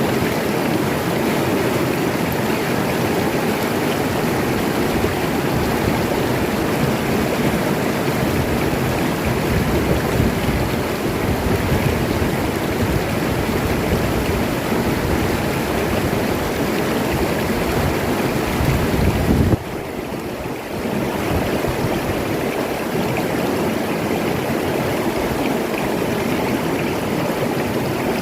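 Oyo River water flowing steadily over its bed. The level drops suddenly about two-thirds of the way through and returns a moment later.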